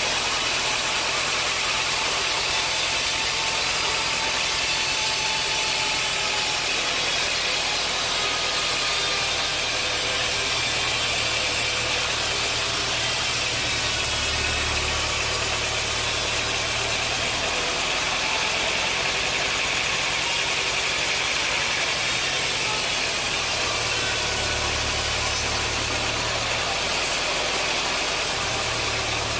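Sawmill machinery running, a steady mechanical drone with no breaks.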